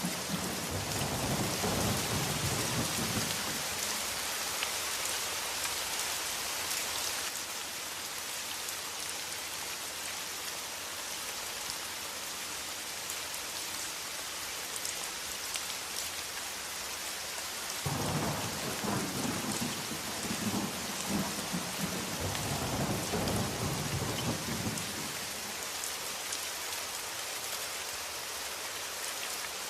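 Steady rain with thunder: a low rumble in the first few seconds and another longer one from about eighteen seconds in.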